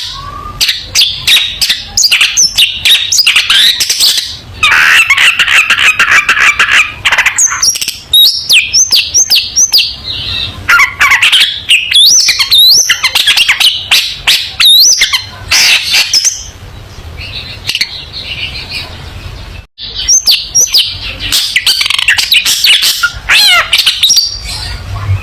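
Long-tailed shrike (cendet) in full song: a fast, varied run of sharp chips, whistled glides and rapid trills. A harsh, buzzy chatter comes about five seconds in, and the song breaks off briefly near the twenty-second mark.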